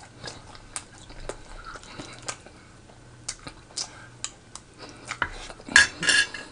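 Close-miked chewing, with many small mouth clicks as food is eaten. Near the end a metal spoon clinks against the plate a few times.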